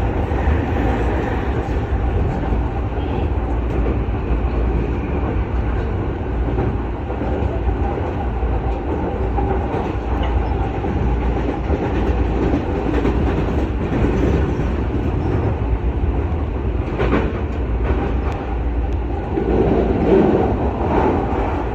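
Electric commuter train running along the track: a steady rumble of wheels on rail, with a couple of sharper clicks in the last few seconds.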